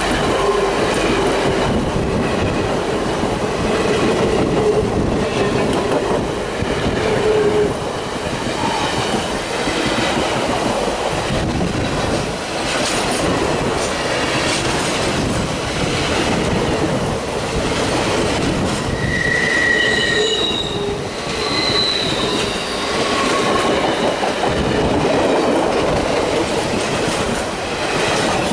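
Passenger coaches of a long excursion train rolling past at close range, their steel wheels clicking over the rail joints. A low wheel squeal comes in the first few seconds, and higher, sharper squeals come about two-thirds of the way through.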